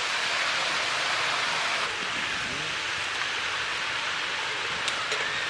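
Cauliflower, potato and tomato sizzling steadily in hot oil in a large wok as they are stir-fried down with spices.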